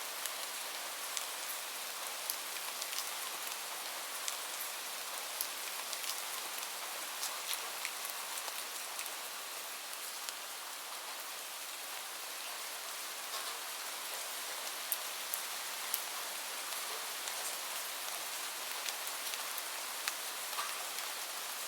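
Steady rain, an even hiss with scattered sharp ticks throughout.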